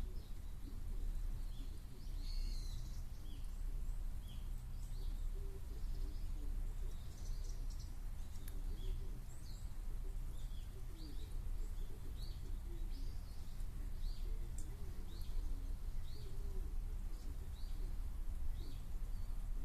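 Small birds chirping, short high calls repeated every half second or so, over a steady low hum and the soft bubbling of air from a pond aeration line.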